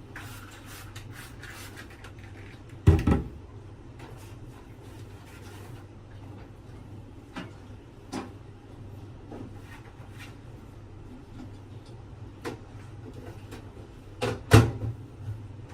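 Household handling sounds: a few knocks and clunks, the loudest about three seconds in and a double one near the end, over a steady low hum.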